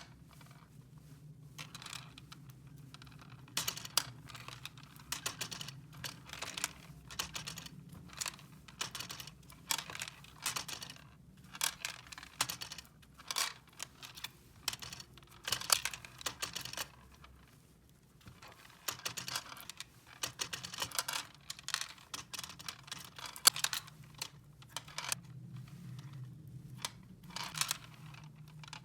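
Small plastic toy parts being handled, with quick irregular clicks and taps and some crinkling of packaging, pausing briefly past the middle.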